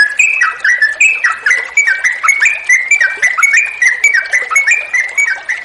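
Yellow-vented bulbul (trucukan) singing a long, rapid run of chattering notes, about four to five a second, with running water trickling behind.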